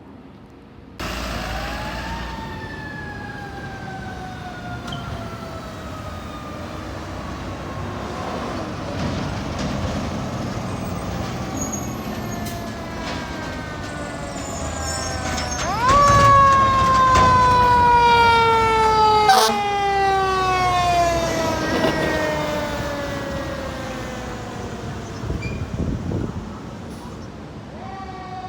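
Fire truck siren in a slow wail: it rises quickly, then falls slowly over many seconds, three times. It is loudest at the second rise, with the truck's engine and road rumble underneath.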